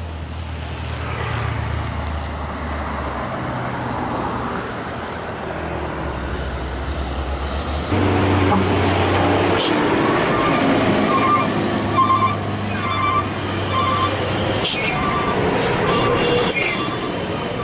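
Heavy diesel truck engine running under load on a climb, getting louder about eight seconds in. From about ten seconds a high beep repeats roughly twice a second, and brief high squeals come near the end.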